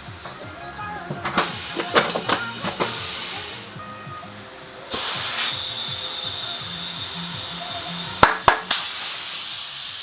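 Background music with some tool clicks and clatter, then from about five seconds in a loud, steady hiss of compressed air from a workshop air hose, as when inflating or blowing off a motorcycle tyre.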